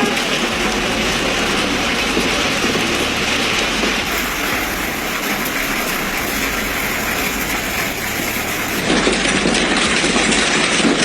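Hailstones pelting down in a dense, continuous clatter of countless impacts, changing character abruptly about nine seconds in.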